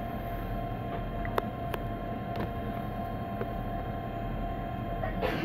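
Inside an electric passenger train: a steady electrical hum with a constant whine over a low rumble, a few light clicks, and a short louder rattle near the end.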